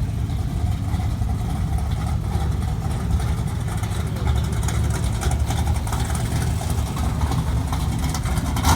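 Car engine idling with a steady low rumble, with a brief loud rush right at the end.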